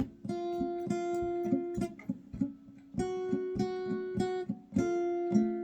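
Acoustic guitar playing the instrumental introduction in a steady rhythm, with a sustained melody line held over the picked chords.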